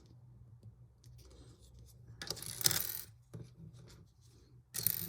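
Small plastic LEGO pieces being handled, rattling and clicking in two short bursts: one about two seconds in, and a briefer one near the end.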